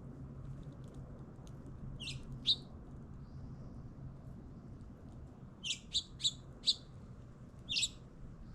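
Small birds chirping: short, high chirps, two about two seconds in, a quick run of four around six seconds, and one more near the end, over a faint steady low hum.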